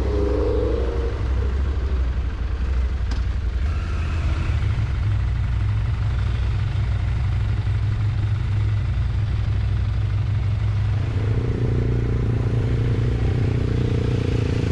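Motorcycle riding along, its engine running under a steady deep rumble of wind and road noise. The engine note comes up louder about eleven seconds in.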